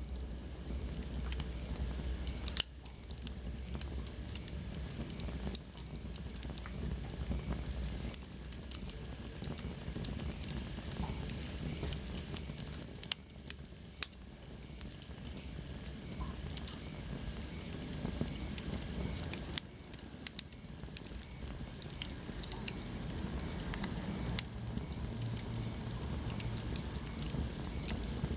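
Wood fire burning in a fireplace, crackling with irregular sharp pops over a soft hiss and low rumble. A faint high whistle slowly falls in pitch about halfway through.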